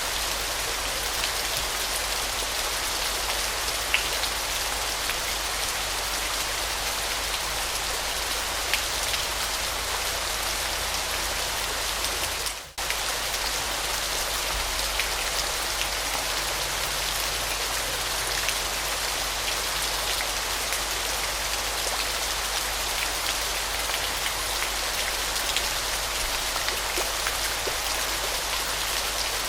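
Waterfall: a steady, even hiss of falling and splashing water with fine droplet ticks. It drops out for a split second about halfway through.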